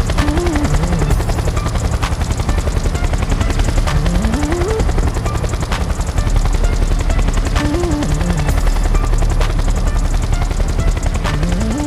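Helicopter in flight, its rotor blades chopping in a rapid, steady beat, with background music underneath.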